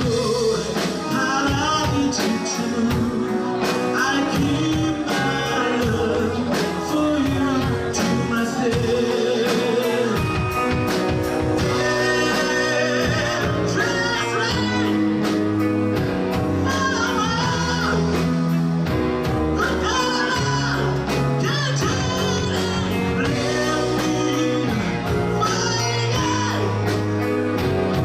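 Live rock band playing a ballad, with a singer's voice over guitar, bass and a steady drum beat.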